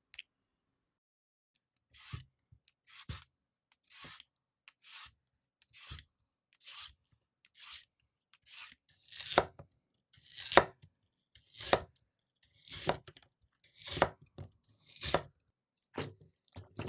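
Knife cutting food on a cutting board, one stroke about every second, each ending in a dull thud on the board. The strokes start about two seconds in and grow louder about halfway through.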